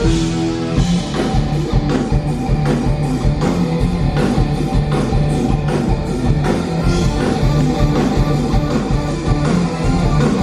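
Instrumental break of a rock-style musical number: electric guitar over a drum kit and bass keeping a steady beat, with no singing.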